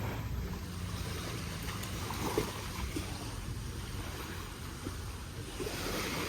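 Wind buffeting the microphone over the wash of surf, a steady rumbling noise with a few faint soft knocks.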